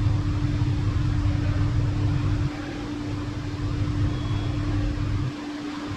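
Steady mechanical hum holding one constant tone over a low rumble. The rumble drops in level about two and a half seconds in, and again near the end.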